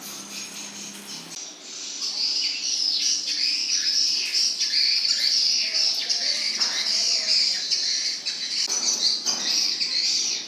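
Many small birds chirping together in a dense, continuous chatter of high calls, which gets louder about a second and a half in.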